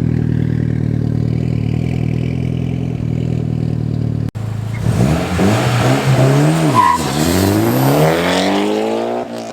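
Mitsubishi Lancer Evolution X's turbocharged 2.0-litre four-cylinder running through a catless downpipe and custom 3-inch exhaust. It holds a steady drone, then after a sudden cut a little over four seconds in it accelerates hard: the pitch climbs, drops once at a gear change about seven seconds in, and climbs again.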